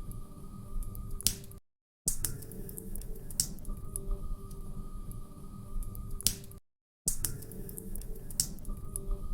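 Log fire in a fireplace crackling, with sharp pops and snaps over a low rumble. The sound cuts out to silence twice for about half a second, about five seconds apart, and then repeats, so it plays as a short loop.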